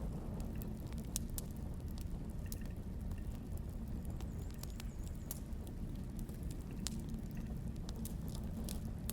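Wood fire burning, with sparse, irregular crackles and pops over a steady low rumble.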